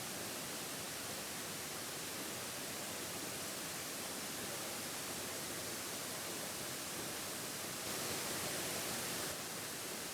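Steady, even rush of a waterfall, slightly louder and brighter for about a second near the end.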